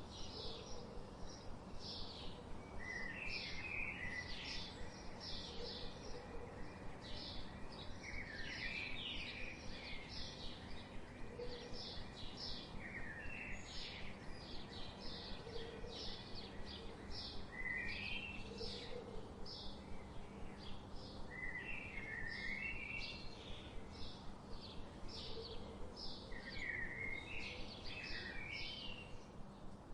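Songbirds chirping: a fast, continuous run of short high chirps, with a lower, warbling phrase breaking in every four or five seconds, over a steady low background hum.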